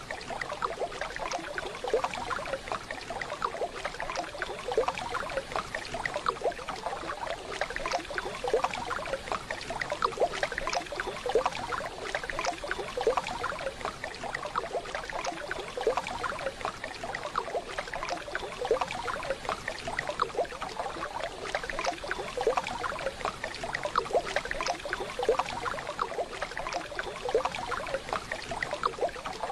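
Waterfall water running, a steady splashing and trickling made of many small splashes.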